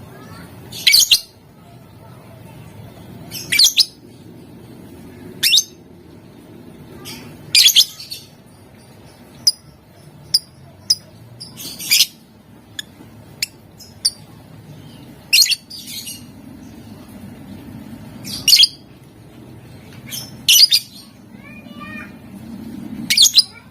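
Lovebird giving short, shrill screeching calls about every two seconds, about ten in all, with a few sharp ticks in between.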